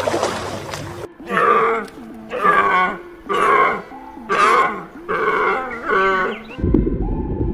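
An animal calling five times in a row, about once a second, each call short with a bending pitch. A rushing noise comes before the calls, and a low rumble takes over near the end.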